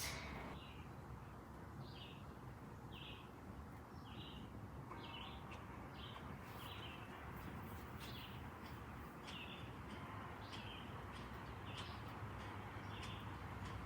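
A bird calling repeatedly in short chirps, about one to two a second, over a low steady outdoor background with a few faint clicks.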